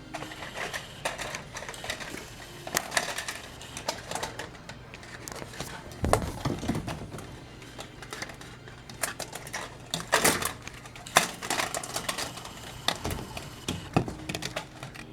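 Kittens playing, their claws and paws making irregular clicks and scratches, with a dull thump about six seconds in.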